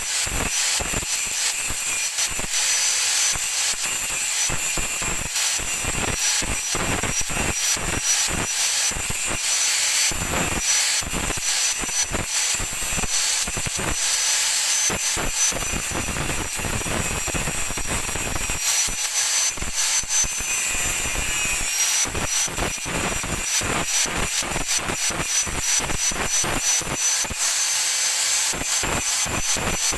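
Stick (arc) welding with a Lakoni 900-watt welding machine: the arc sizzling steadily with dense, irregular crackles and pops, under a faint thin high tone.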